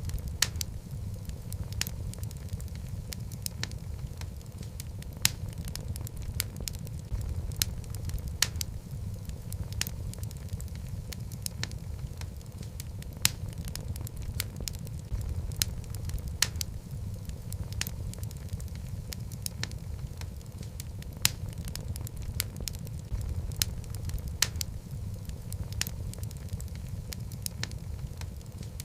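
Wood fire burning in a fireplace: a steady low rumble of flames with sharp, irregular crackles and pops from the logs.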